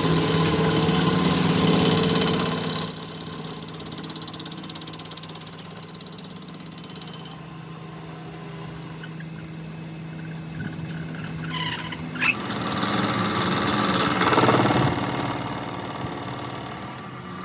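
An electric power tool motor running with a steady high whine. It is loud for about the first six seconds, quieter in the middle, then loud again from about twelve seconds until shortly before the end.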